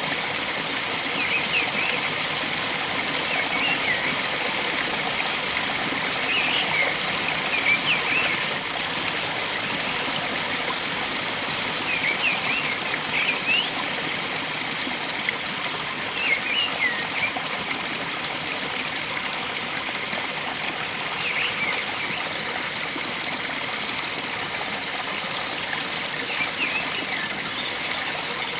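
Steady rush of flowing stream water, with a bird giving short clusters of high chirps every few seconds over it.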